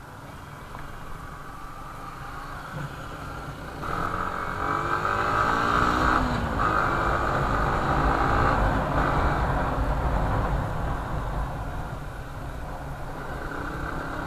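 Road traffic: motor vehicle engines running, with one vehicle passing close and loudest from about four to nine seconds in, its engine pitch sliding as it goes by over a steady low rumble.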